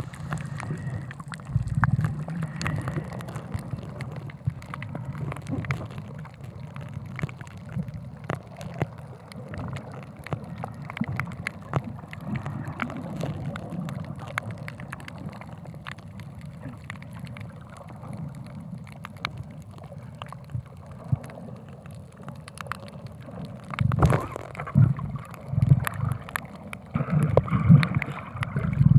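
Water gurgling and sloshing close around the camera, with many small clicks and uneven low surges that grow stronger near the end.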